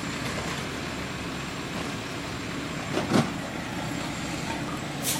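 Garbage truck's diesel engine running steadily, with one sharp bang about three seconds in.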